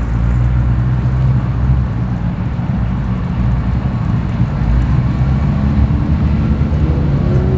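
Ford ute's engine running loud and low, with a slight rise in pitch near the end as it pulls away.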